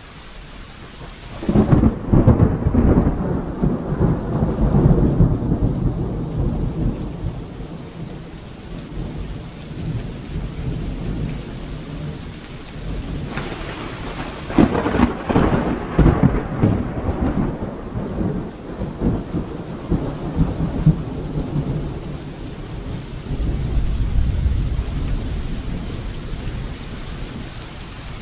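Steady rain with thunder. A loud clap about a second and a half in rumbles away over several seconds, a second clap comes about halfway through, and a low rumble builds again near the end.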